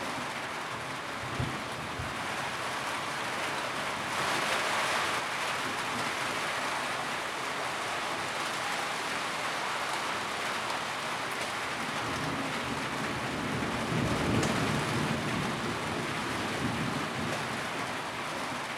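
Steady rain drumming on a tin roof, a dense even hiss of drops with a few heavier swells and the odd low knock.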